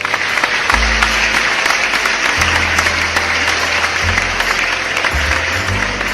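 Applause that starts suddenly and keeps on, laid over background music with a low bass line that changes note every second or so.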